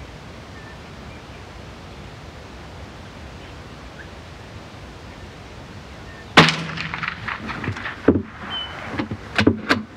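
A single .22LR rifle shot about six seconds in, over a steady hiss, followed by a run of sharp clicks and knocks.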